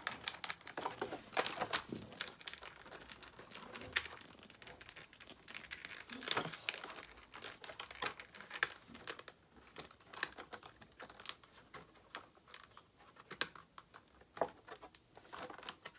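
Plastic packaging crinkling and rustling as it is handled, with scattered irregular clicks and crackles.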